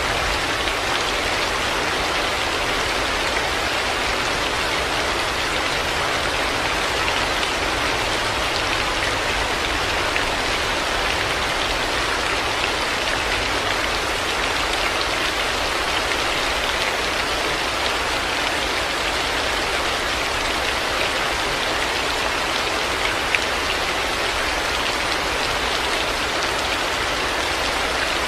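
Heavy rain falling steadily, a dense even hiss of drops, with one brief louder tick about two-thirds of the way through.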